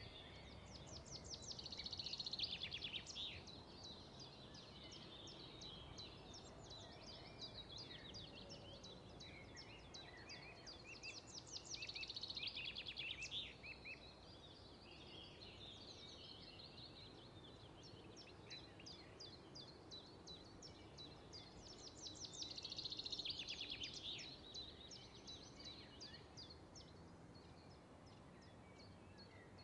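Faint small birds chirping and twittering, with a louder, fast trill three times, about ten seconds apart.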